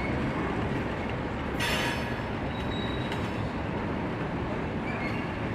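Freight cars of a long train rolling past, a steady rumble of wheels on the rails, with a brief rise in high-pitched hiss about one and a half seconds in.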